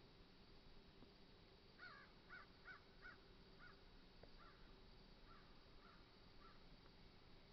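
Faint bird calls over a quiet background: a series of about ten short, harsh notes starting about two seconds in and fading out over the next few seconds.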